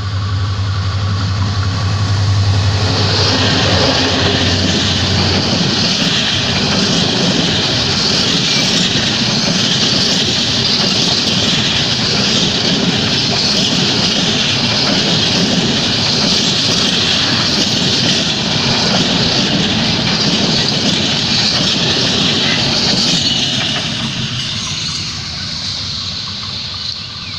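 Rangpur Express passenger train running fast on the rails, its wheels and coaches making a loud, steady rushing clatter that fades away near the end.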